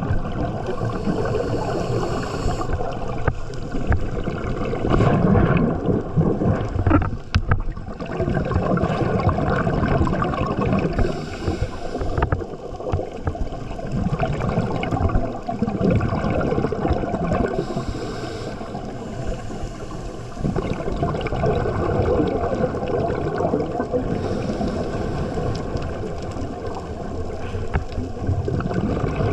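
Underwater water noise, a continuous gurgling wash with short hissy bursts of bubbles every several seconds.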